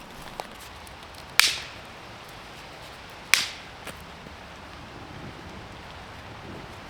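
Dry branches being snapped by hand for firewood: two sharp, loud cracks about two seconds apart, with a fainter click just before.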